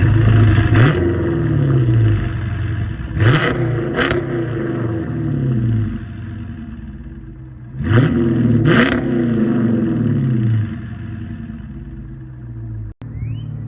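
2014 Dodge Charger R/T's 5.7-litre Hemi V8 through Carven R mufflers with the resonator deleted, revved in three sets of two quick throttle blips, near the start, about three seconds in and about eight seconds in, each time falling back to a rumbling idle.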